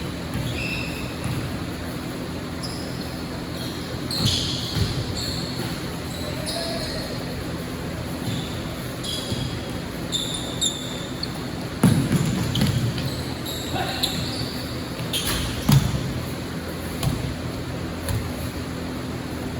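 Basketball being played in a gym: the ball bouncing on the court and sneakers making short, high squeaks on the floor, with a few louder thumps in the second half, in a hall that echoes.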